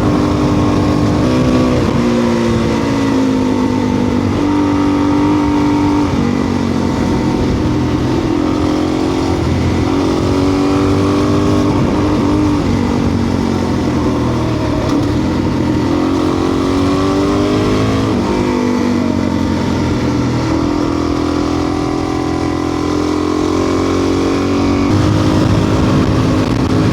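Adventure motorcycle's engine running on the road, its pitch climbing and dropping back several times as it accelerates and changes gear.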